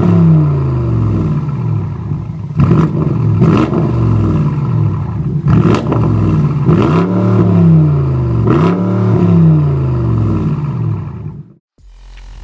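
BMW X7 M50i's twin-turbo V8 through an Armytrix cat-back exhaust, revved up and let fall again and again, with a few sharp cracks in between. The sound cuts off suddenly near the end.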